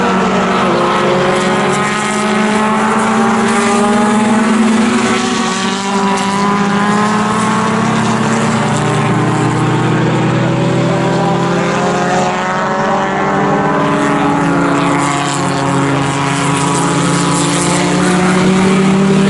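Racing engines of pre-1961 sports racing cars running hard, several at once, their pitch repeatedly rising and falling.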